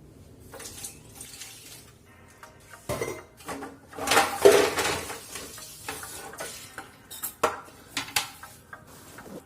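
Kitchenware clinking and clattering while liquid dish-wash is mixed with water for washing. There is a louder rush of noise about four seconds in and a few sharp clinks near the end.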